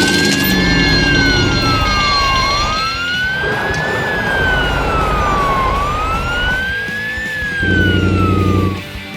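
Emergency vehicle siren wailing, rising and falling slowly three times over a running vehicle rumble. Near the end a loud low steady tone sounds for about a second.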